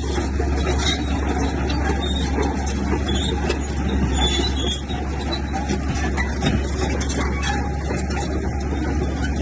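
A bulldozer's diesel engine running steadily under work, with short high-pitched squeaks and metallic rattle on top.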